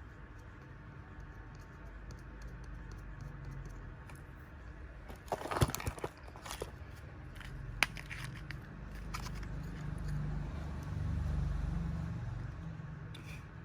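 Small hand tools and parts being handled at a repair bench: scattered sharp clicks and scrapes, a cluster of them about halfway through, over a low rumble that swells near the end.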